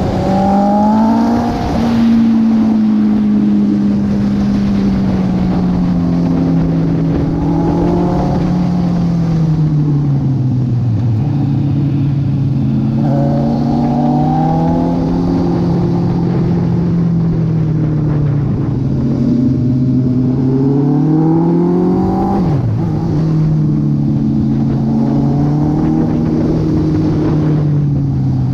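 Honda CB650R's inline-four engine under way, its pitch climbing and falling several times as the throttle opens and closes, with a sudden drop about 22 seconds in when the throttle shuts.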